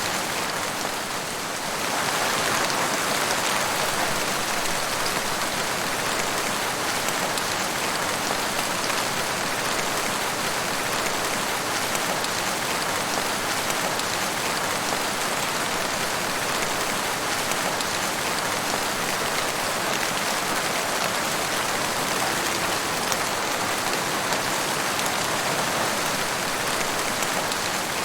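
Steady rain falling in a forest, a dense, even hiss of raindrops. It eases slightly for a moment about a second in, then carries on.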